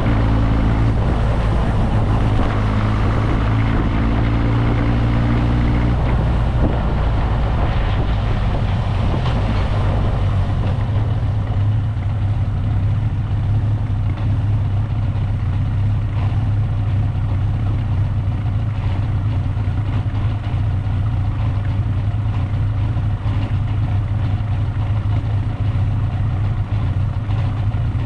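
Motorcycle engine running with wind rush over the helmet-mounted microphone; after about ten seconds the rush fades and a steadier, lower engine drone remains.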